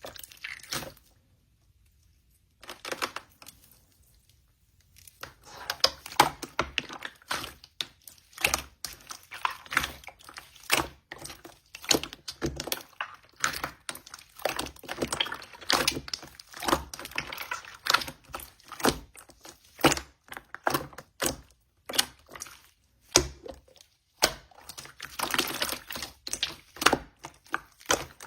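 Slime being squished, pressed and stretched by hand: a dense run of sticky crackles, pops and clicks, with short pauses in the first few seconds and again about three quarters of the way through.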